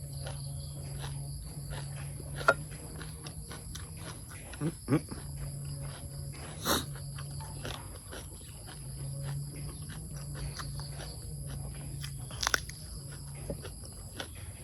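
A person chewing and eating close to the microphone, with scattered small mouth clicks and a few sharper clicks, over a steady low hum.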